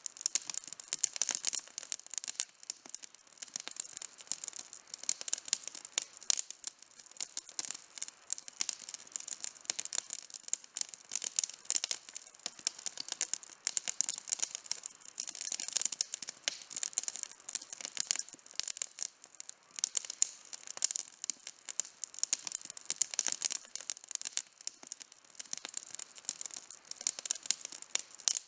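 Outdoor campfire burning, wood crackling and popping in a steady stream of sharp snaps.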